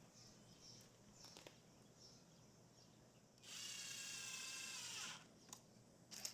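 Power drill running for under two seconds, its motor whine dipping as it stops, with a few light clicks and knocks before and after.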